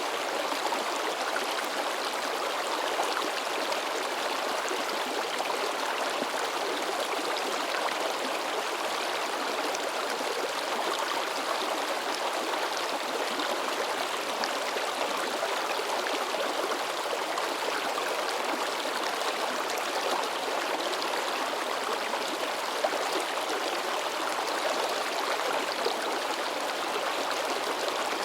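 A shallow river babbling and splashing over rocks in a steady, lively flow, with small splashes and gurgles throughout.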